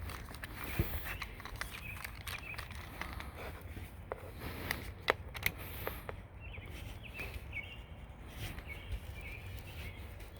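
Scattered light clicks and knocks of hand work on a screen door frame and its heavy pet screening, with a few faint bird chirps about six to eight seconds in.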